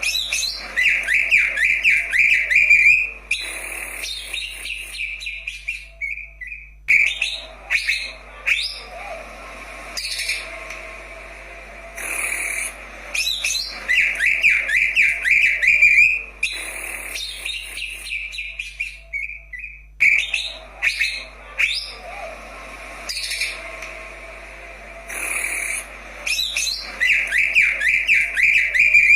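Green leafbird (cucak ijo) singing: sharp whistled notes and fast chattering trills, with a long rapid trill phrase coming back about every 13 seconds.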